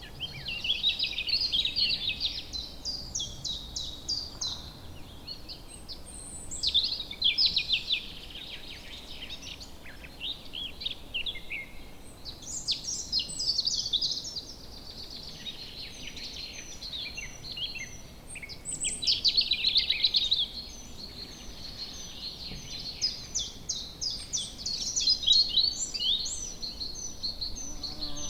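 Songbirds singing in woodland: bursts of rapid, high twittering song come every few seconds, and between them a bird repeats short, high single notes. A faint steady outdoor hiss runs underneath.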